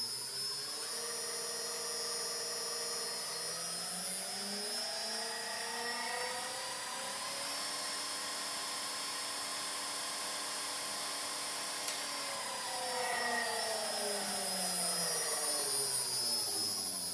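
A small motor-driven machine spinning up, running at a steady pitch for several seconds, then winding down, its pitch falling away near the end.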